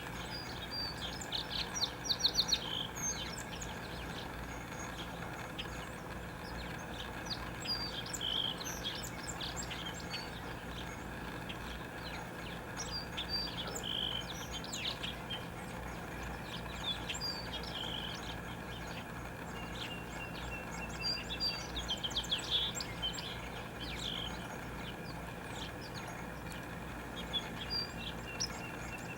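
Songbirds chirping in many short high notes and a few quick trills, strongest about two seconds in and again around twenty-two seconds, over a steady low background hum.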